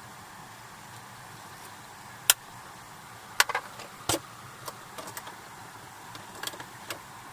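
Several sharp knocks and clicks at irregular intervals over a steady hiss. The loudest comes about two seconds in, and a quick cluster follows a second later.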